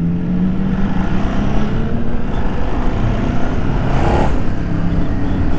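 2011 Ducati Multistrada 1200 S's L-twin engine running steadily while the bike is ridden, with heavy wind rush, as heard from on board. There is a short rise in noise about four seconds in.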